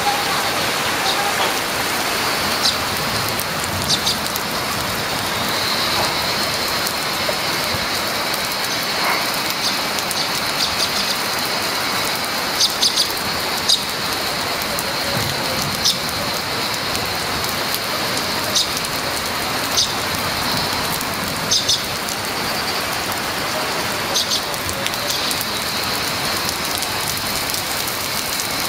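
Monsoon rain pouring steadily, with a dozen or so sharp taps scattered through it.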